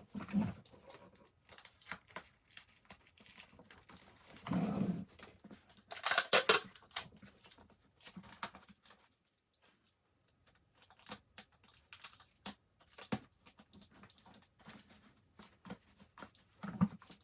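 Hands handling and arranging gift items: scattered clicks, taps and light rustles of packaging, with a louder crinkling rustle about six seconds in.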